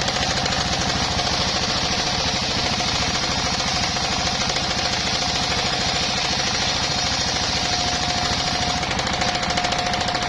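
Engine-driven circular sawmill running: the engine's fast, even chugging and a steady whine from the spinning blade, with a hiss from the blade cutting through bayur wood that stops about nine seconds in.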